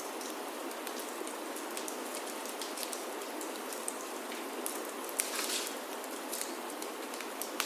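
Steady rain falling on a wooden chalet roof, with scattered sharp crackles and a brief hiss about five seconds in from a wood fire burning in a fireplace.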